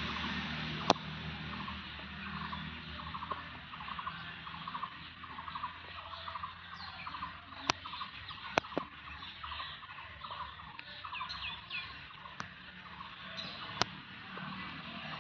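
Birds chirping outdoors: a short note repeated about twice a second, with a few higher, sliding calls later on, over a steady low hum. A few sharp clicks cut through, the loudest about a second in.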